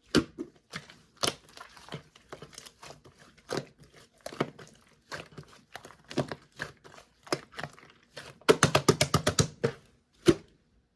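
Clear jelly-textured slime being pressed and squeezed by hand, making scattered sticky clicks and air-bubble pops. A quick run of about a dozen crackling pops comes near the end, followed by one last pop.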